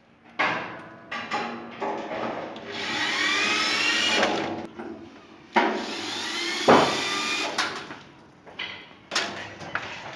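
A handheld power tool's motor runs in short bursts, rising in pitch as it speeds up and stopping abruptly, with sharp knocks between the bursts.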